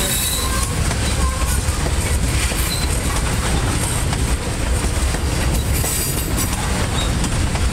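Freight train's tank cars rolling past close by: a steady low rumble of steel wheels on rail, with short clicks and brief high wheel squeals now and then as the cars take the curve.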